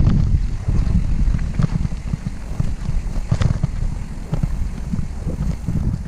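Wind buffeting the microphone in a steady low rumble while a hardtail mountain bike rides a dirt trail, with scattered clicks and rattles from the bike over bumps.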